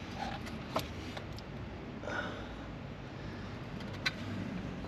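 Two light clicks, one about a second in and one near the end, over a steady low background hum.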